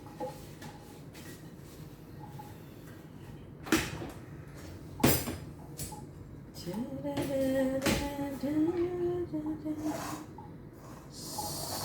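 Two sharp knocks of kitchen handling, then a woman humming a short wordless tune for about three seconds, with a brief scraping hiss near the end.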